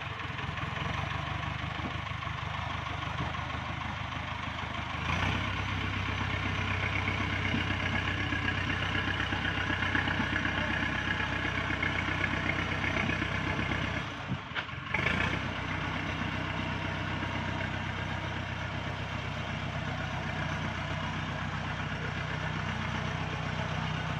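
Truck engine running steadily. It gets louder about five seconds in, drops out briefly around the middle, then carries on evenly.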